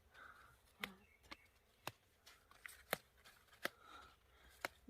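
Faint, sparse sharp snaps, about six of them a fraction of a second to a second apart, as herb stems are picked off by hand.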